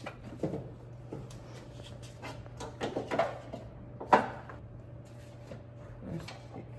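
Scattered knocks and clanks, the loudest a sharp one about four seconds in, over a steady low hum.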